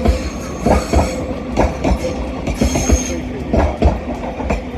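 Class 331 electric multiple unit rolling past at low speed, its wheels knocking over rail joints and points in pairs about once a second, with a faint high wheel squeal.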